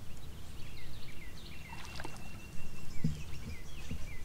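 Birds chirping over and over in short, falling notes, with one held note in the middle, over a steady low rumble of wind and water.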